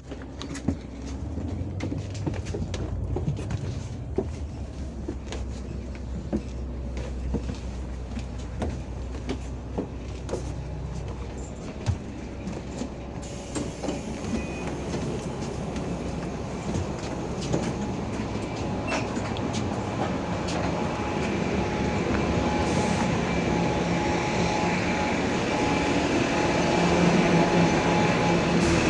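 Inside a moving bus: a low engine and road rumble with frequent short rattles and clacks, the noise growing steadily louder over the second half as the bus picks up speed.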